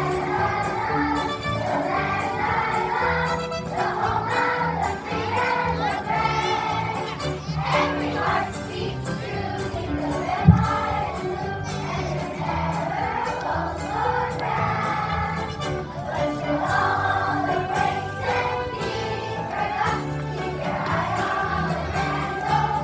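A song sung by a group of voices over instrumental accompaniment. A single brief thump sounds about ten seconds in.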